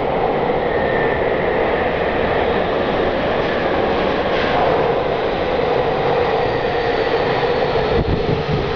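Tokyu 3000 series electric train running in a tunnel, heard from on board: a steady rumble of wheels on rail with a faint whine over it.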